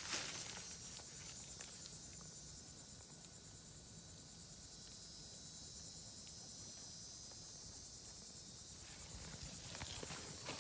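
Insects trilling steadily, a high, fast-pulsing buzz, over a low steady hum from the running 2010 Trane XL15i heat pump.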